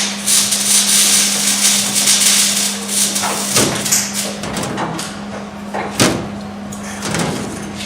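Sheet metal being handled and worked on the car body: a rattling scrape, then a few sharp knocks, the loudest about six seconds in, over a steady low hum.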